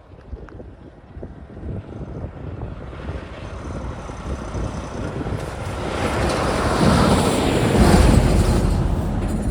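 A vehicle passing by, its rumble building to a peak about eight seconds in and then easing off.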